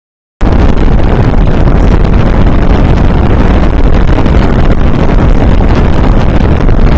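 Heavy wind buffeting on the unprotected built-in microphones of a Sony PCM-D50 handheld recorder, blasted by an industrial fan on high: a loud, rumbling roar of wind noise, near full scale, that cuts in abruptly about half a second in after dead silence. It is the sound of the recorder with no windscreen on.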